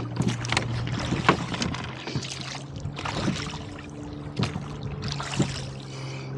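Rowboat being rowed into a strong gusty wind: irregular knocks and splashes from the oars working in their oarlocks, with wind and water noise between strokes.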